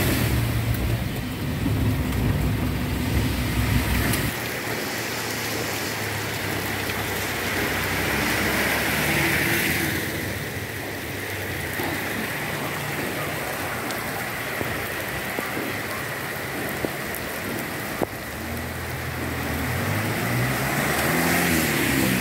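Heavy rain falling steadily on a wet road, together with the running noise of a car driving through it. A strong low rumble drops away about four seconds in, and a vehicle's engine note rises and falls near the end.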